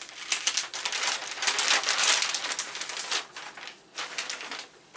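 Packaging crinkling and rustling as a boxed circuit board is handled: dense, irregular crackles, loudest about two seconds in, dying down near the end.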